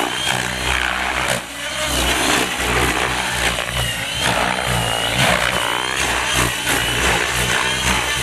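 Gaui X7 radio-controlled helicopter flying stunts at low head speed: its rotor and motor run steadily, with a high whine that rises and falls as the pilot works the throttle and pitch.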